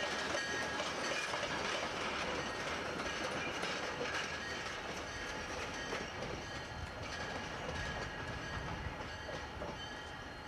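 Diesel locomotives rolling slowly past on jointed rail, engines running, wheels clicking over the rail joints. The sound slowly grows quieter.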